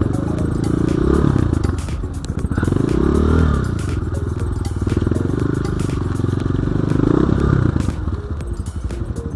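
BSE J1 enduro dirt bike engine being ridden, its revs rising and falling several times as the throttle is worked, with a sharp climb and drop about three seconds in. Many short knocks and rattles run through it.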